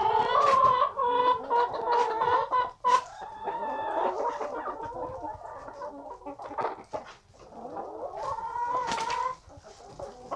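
Chickens clucking and calling in drawn-out, pitched calls, with a few sharp knocks in between.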